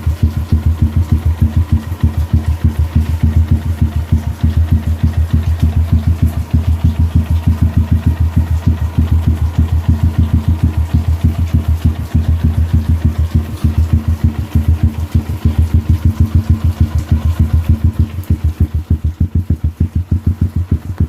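Motorcycle engine idling steadily through an aftermarket 'New Techno' exhaust, a loud even train of rapid exhaust pulses with no revving.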